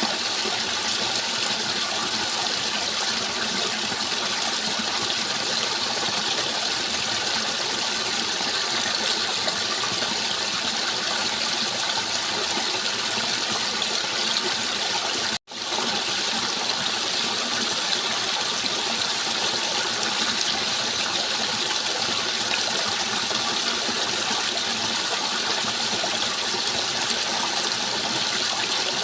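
Steady rushing water, an even continuous wash of sound, which cuts out for an instant about halfway through.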